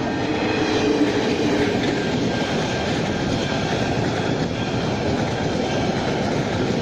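Train passing close by over a level crossing: a steady, loud rumble of wheels and carriages with clicking over the rail joints.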